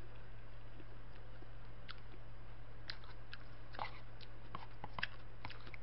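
A person eating instant jjajang cup noodles with chopsticks: scattered soft chewing and mouth clicks over a steady low electrical hum.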